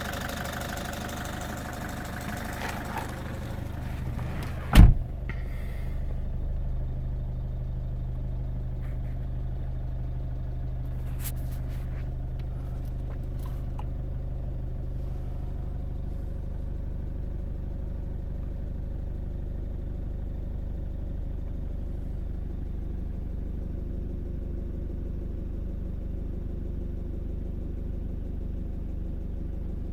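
Citroën C5 2.0 HDi diesel engine idling, at first loud with a ticking clatter that the owner can't place and suspects comes from around the injectors. About five seconds in a car door shuts with a loud thump, after which the engine sounds muffled and steady, the high clatter mostly gone.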